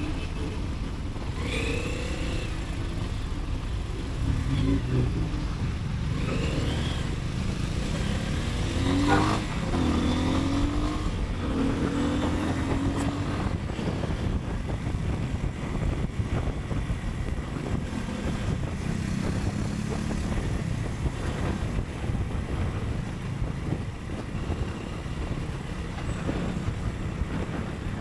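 Motorcycle riding through city traffic: a steady low rumble of engine, wind and road, with the engine pitch rising several times in the first half as it accelerates, then a steadier cruise.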